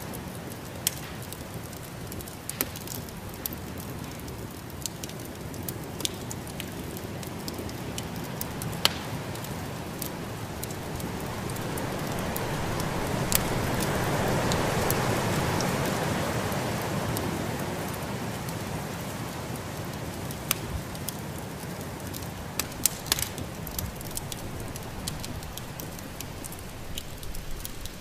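Fireplace fire crackling with scattered sharp pops over the steady rushing of a snowstorm wind. The wind swells to a peak about halfway through, then dies back down.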